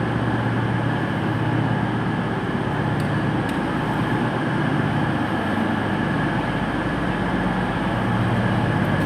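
Class 221 Voyager diesel multiple units running at a station platform: a steady, wavering low diesel hum with general station noise.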